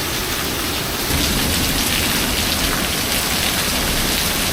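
Heavy rain pouring down in a storm: a steady, dense hiss that gets a little louder about a second in.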